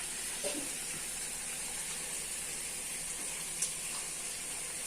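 Whole spices and onion sizzling steadily in hot oil in a cooking pot, with a couple of faint clicks.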